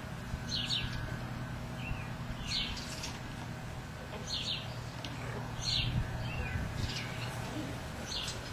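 A bird calling repeatedly outdoors: short, high chirps that sweep downward, one every second or two, over a steady low background hum.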